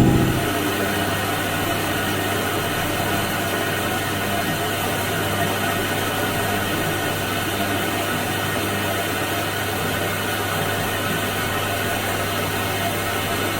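Washing machine running. A heavier, rumbling phase drops away in the first half second, leaving a steady hum with an even hiss.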